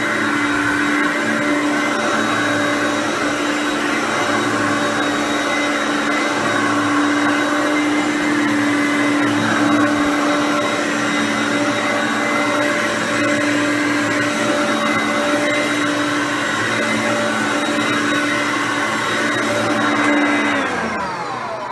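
Hoover Concept One upright vacuum cleaner running steadily with a constant whine. Near the end it is switched off, and the motor winds down, its pitch falling as it slows.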